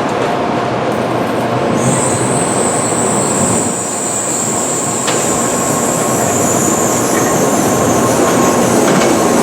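Tokaido Shinkansen train moving along the platform with a steady rumble. A high-pitched squeal sets in suddenly about two seconds in and holds.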